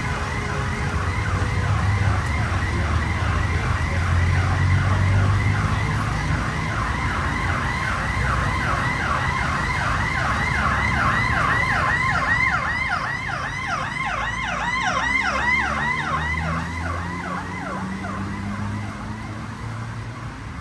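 Emergency vehicle siren in a fast yelp, rising sweeps about four a second, over low traffic rumble; it fades away near the end.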